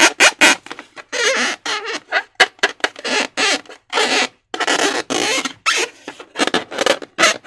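Rubber balloons and slime being squeezed and handled: a quick, irregular run of short squelches and squeaks, some with a wavering pitch.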